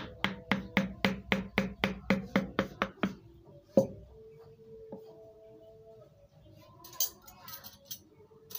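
Wood carving chisel driven into wood with a mallet: a quick, even run of about a dozen taps, some four a second, then one harder strike. A short scrape of the blade follows near the end.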